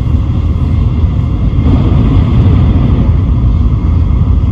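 Tokaido–Sanyo Shinkansen train running at speed, heard inside the passenger car: a steady, loud low rumble of running noise with a fainter hiss above it.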